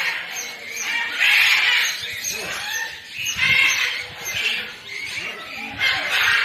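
Chickens clucking and squawking in a series of loud calls, about one every second.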